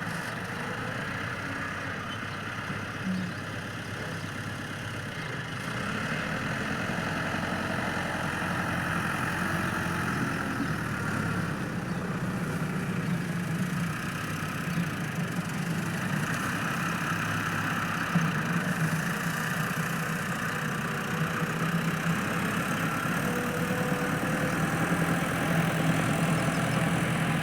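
Tractor engine idling steadily, getting a little louder about six seconds in.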